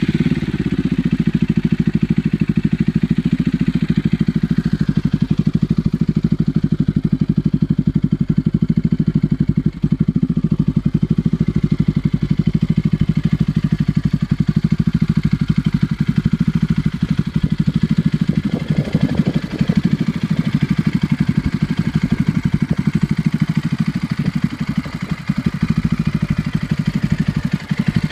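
Bajaj Pulsar 200NS's single-cylinder engine idling steadily just after starting, with a steady, pulsing exhaust note through an aftermarket Tiger TRI 800 muffler fitted in place of the stock silencer, catalytic converter kept. A brief rise in pitch comes about two-thirds of the way through.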